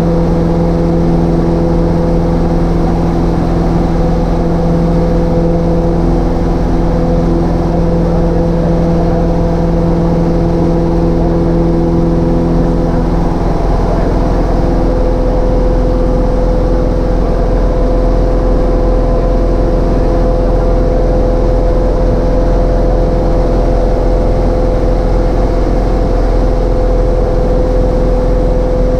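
Cessna 152's four-cylinder Lycoming engine and propeller droning steadily in flight, heard inside the small cockpit. The lowest part of the drone drops away about halfway through, as if the power setting changed.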